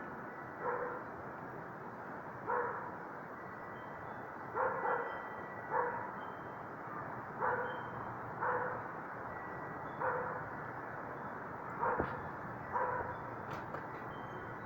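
A dog barking over and over, a short bark about every one to two seconds, over a steady rush of wind.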